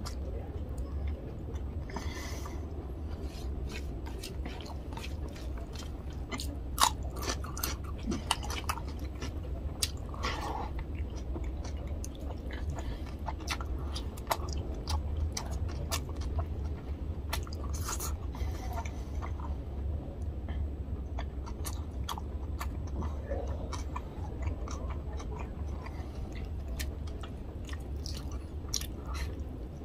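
Close-miked eating sounds of a man chewing mouthfuls of fish curry and rice, with many short, wet clicks from mouth and fingers in the food scattered throughout. A steady low hum runs underneath.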